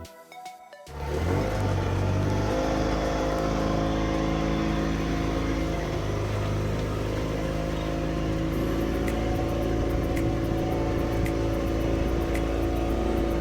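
Motorboat engine coming up to speed about a second in, its pitch rising, then running steadily under way.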